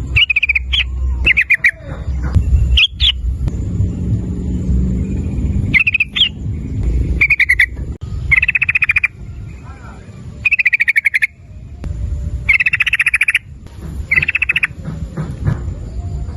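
Yellow-vented bulbul (trucukan) calling in short, rapid chattering rattles, about eight bursts, each under a second long, with a brief rising note among them. A low rumble runs underneath.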